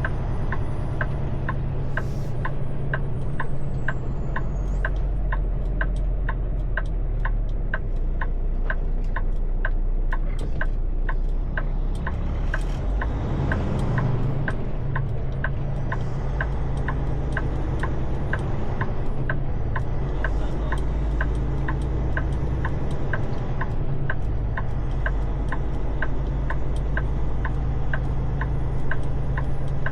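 Truck engine idling with a steady low hum, and an even ticking about twice a second over it.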